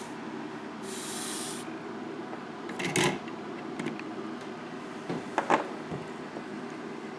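Small clicks and knocks of tools and kit parts being handled on a workbench between soldering joints, over a steady low hum, with a short hiss about a second in.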